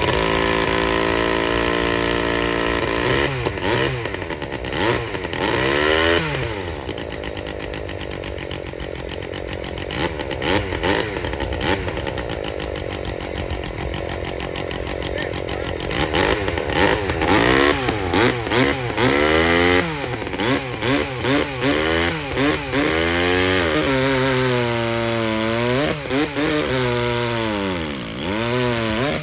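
Vintage two-stroke chainsaw engine running and being revved up and down again and again with quick throttle blips. There is a steadier, quieter stretch in the middle.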